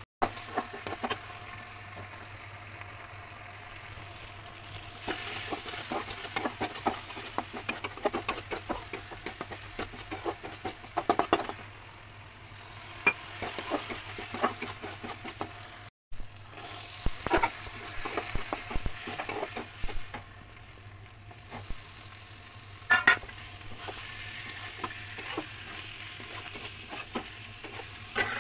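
Masala paste frying and sizzling in a pan while a metal spatula stirs and scrapes it, with many irregular clicks against the pan. The sound drops out for a moment about halfway at an edit, and by the end paneer cubes and peas are frying in the pan.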